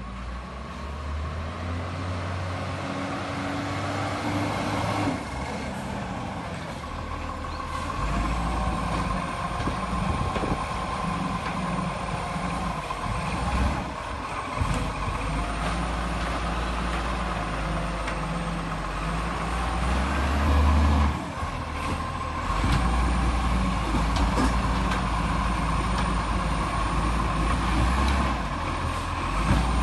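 Garbage truck's diesel engine running, its rumble swelling and dropping several times, with a steady high whine over it.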